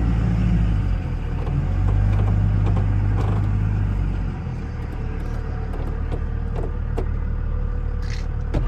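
A motor vehicle's engine running with a steady low hum, easing slightly about halfway through, with a few light clicks and knocks near the end.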